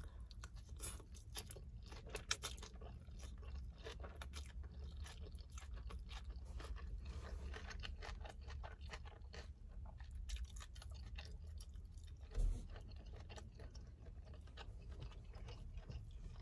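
Close-up chewing of lo mein noodles and fried honey chicken, with many small wet mouth clicks and lip smacks. A low steady hum runs underneath, and a single soft thump comes about twelve seconds in.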